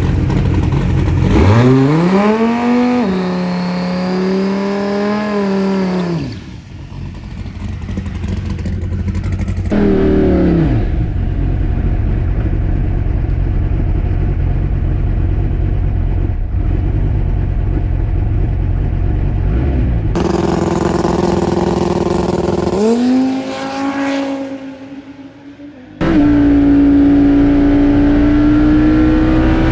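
Twin-turbo Dodge Viper V10 drag car revving hard: the engine note climbs and holds, then falls away, followed by a long loud stretch. Near the end it comes in suddenly loud and the pitch climbs slowly. On this pass the engine was running on nine of its ten cylinders, with a burnt plug wire.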